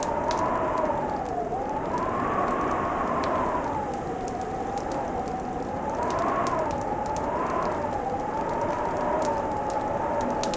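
Fireplace crackling, with scattered sharp pops over a steady hiss, under a continuous howl that slowly rises and falls in pitch.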